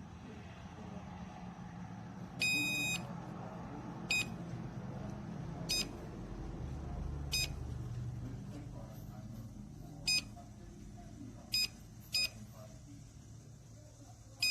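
Electronic beeping: one longer beep about two seconds in, then about seven short beeps of the same high pitch at uneven gaps, over a low steady rumble.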